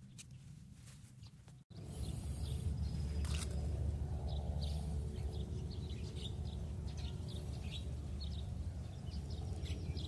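Small birds chirping repeatedly over a steady low rumble, starting after a sudden cut about two seconds in. Before the cut, only faint clicks and rustling.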